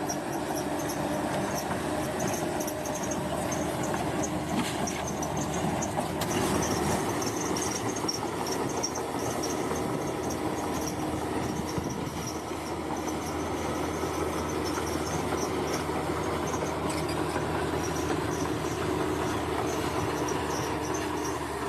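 Bulldozer's diesel engine running steadily at work, with a dense mechanical rumble and faint rapid ticking high above it.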